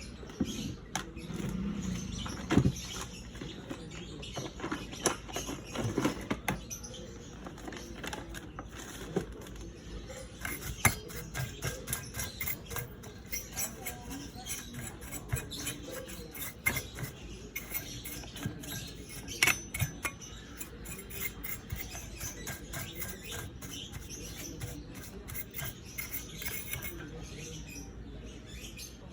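Many small, irregular clicks and taps, with a few louder knocks, from small tools and parts being handled in hand work on a PC power supply.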